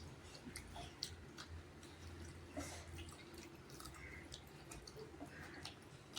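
Faint eating sounds: scattered small clicks and soft wet sounds of chewing and of fingers working rice and chicken curry on a plate, over a low steady hum.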